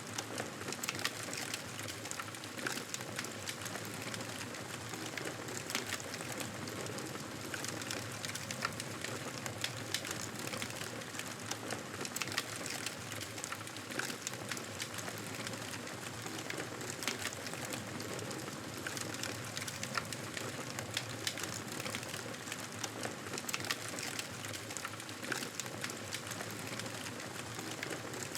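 Wood fire crackling steadily: a continuous hiss dotted with many small sharp pops and snaps.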